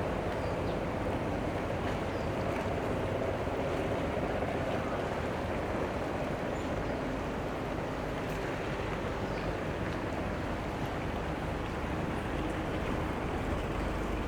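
Steady low engine drone mixed with water noise, the sound of boats running in a harbour.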